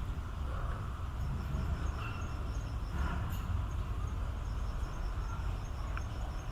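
An insect chirping in an even train of short, high pulses, about four a second, over a steady low background rumble.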